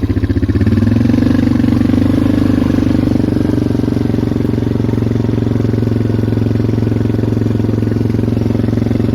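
Polaris Magnum 425 ATV's single-cylinder four-stroke engine running steadily under throttle while riding. It rises a little in pitch about a second in, then holds.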